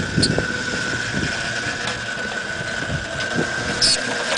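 Off-road 4x4 vehicle engine running steadily, with a constant high whine and a few scattered knocks.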